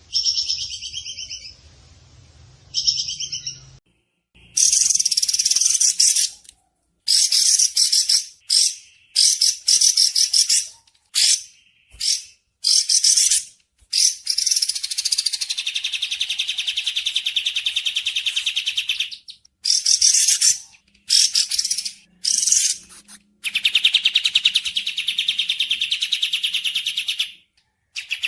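Recorded bird song: two short chirps, then repeated bursts of fast, high trilled chattering, each lasting from about half a second to a few seconds with short breaks between.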